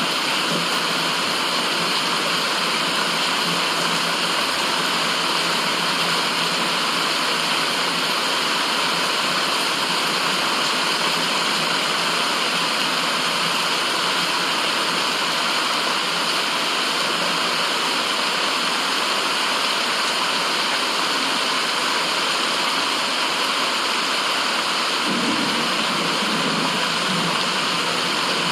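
Continuous white-noise track: an even, steady rushing hiss like running water, with no pauses or changes in level.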